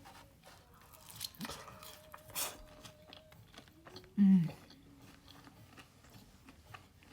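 Close-miked biting and chewing of cheese fries topped with ketchup and nacho cheese sauce: soft wet mouth clicks and crunches, with a short hummed "mm" of approval about four seconds in.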